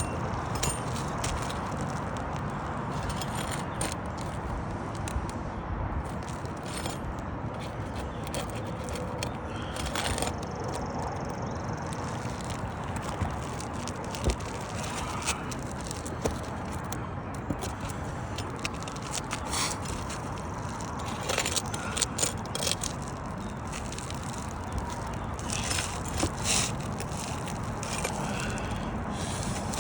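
Asphalt roof shingles being pried up and their nails worked loose: irregular scraping and sharp clicks over a steady background rush. The nails are overdriven and hard to get out.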